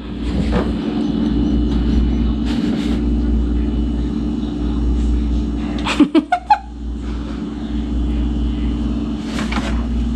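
Steady low rumble and hum of a running vehicle engine. About six seconds in comes a quick cluster of four or five short, sharp sounds.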